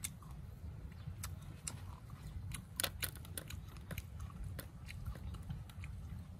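Crunchy chewing of crisp raw fruit: irregular sharp crunches, loudest in a cluster about three seconds in, over a steady low rumble.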